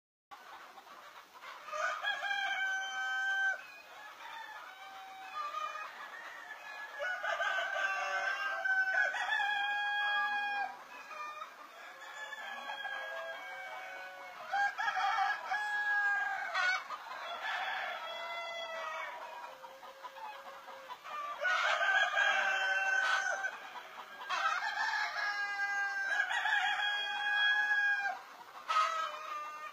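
Desi (native) chickens: roosters crowing again and again, one long crow after another, with clucking between.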